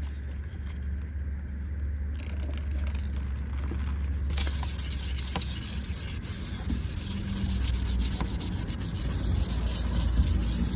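Hand wet-sanding of body filler on a car panel with 600-grit sandpaper and soapy water: a rubbing hiss of quick back-and-forth strokes that gets denser and louder about four seconds in.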